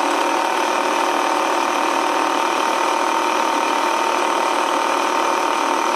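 Tomy Turnin' Turbo Dashboard toy racing game running: its small electric motor and plastic gears whirring steadily, with a constant mid-pitched whine.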